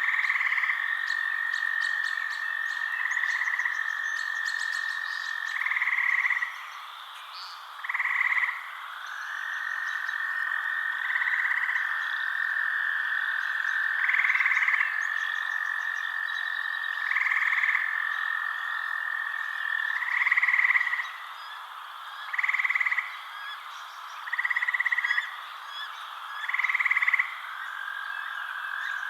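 Night chorus of frogs: a steady high trill runs on, and a louder call breaks in every two to three seconds, with faint high chirps behind.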